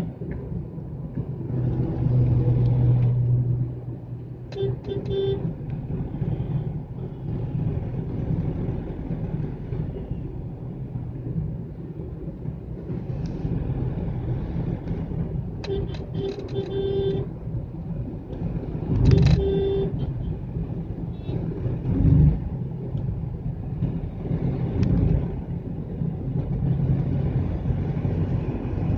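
Car driving in city traffic: a steady road rumble, broken by short horn toots a few times, once about five seconds in and in a cluster past the middle.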